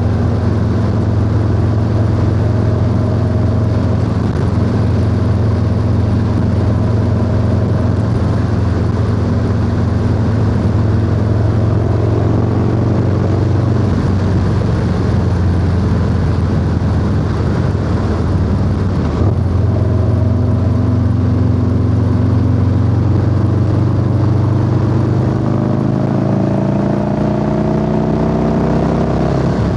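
Harley-Davidson Low Rider S V-twin engine running steadily at cruising speed under wind noise, then rising in pitch near the end as the bike accelerates.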